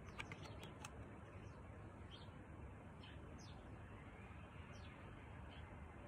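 Faint songbird chirps: short, falling calls every second or so over steady low background noise, with a few soft clicks in the first second.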